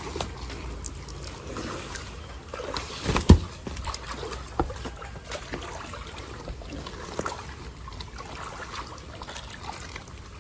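Floodwater splashing and sloshing as people wade and move through it, with scattered small splashes and one sharp knock about three seconds in.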